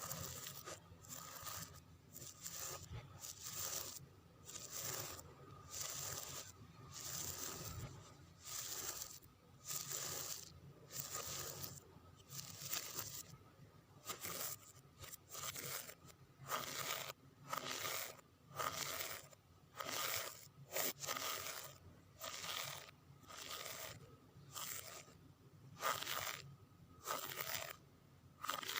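Long fingernails scratching with their backs across a surface in short, scraping strokes, repeating about once a second.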